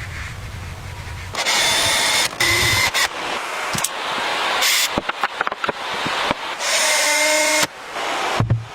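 A power drill running in several short, high-pitched spells that start and stop abruptly, with a run of sharp clicks and knocks about halfway through.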